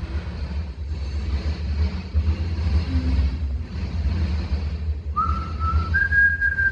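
Steady low rumble of a car driving alongside a freight train, heard from inside the cabin. About five seconds in, someone starts whistling one long note that climbs, then slowly sinks.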